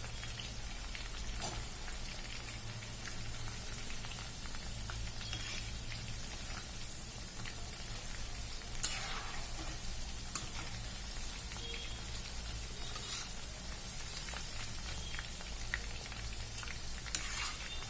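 Battered chicken pakoda pieces deep-frying in hot oil: a steady sizzle with a few sharp pops, over a low steady hum.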